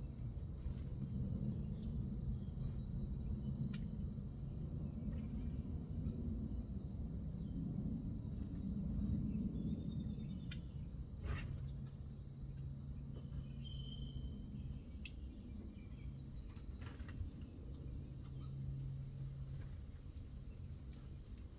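Outdoor backyard ambience: a steady high-pitched insect trill, most likely crickets, over a low rumble, with scattered sharp clicks and one brief bird chirp about two-thirds of the way through.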